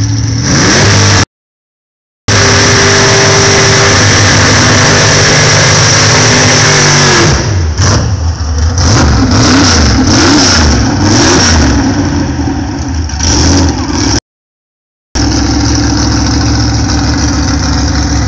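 Loud V8 drag-car engines running hard, held at high revs for several seconds, then revved up and down in short blips before settling to a steadier run. The audio cuts out to silence twice for about a second.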